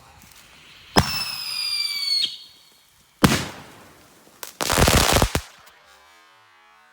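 Fireworks going off: a sharp crack about a second in followed by a falling whistle lasting about a second, then a sharp bang, then a longer, louder burst.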